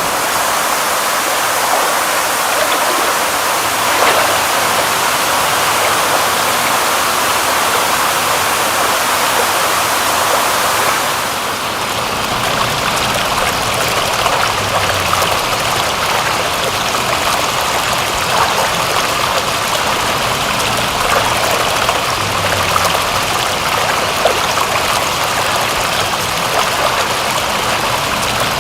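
Steady rushing water with scattered small drips and splashes ticking through it; the sound shifts slightly and drops a little in level about eleven seconds in.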